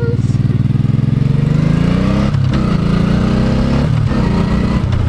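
Motorcycle engine accelerating, its pitch climbing and then dropping sharply twice, about two and a half seconds in and again near four seconds: upshifts through the gears.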